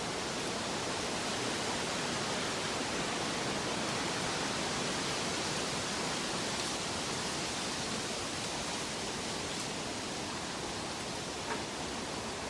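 Steady, even rushing of falling or flowing water, a nature-sound track with no music.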